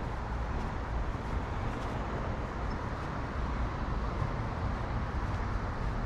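Steady outdoor city ambience: a continuous low rumble of road traffic with no single passing vehicle standing out.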